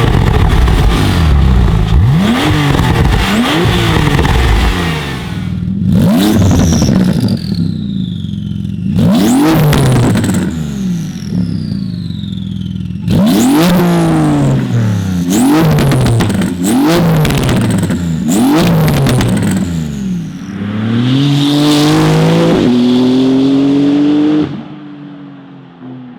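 Porsche 911 GT2 RS (991.2) twin-turbo 3.8-litre flat-six revved in sharp blips at a standstill, first through the stock exhaust. About ten seconds in it switches to Fabspeed cat-bypass race pipes, with a quicker string of blips, and a thin falling whistle follows some of the revs. Near the end the car accelerates hard past and fades away.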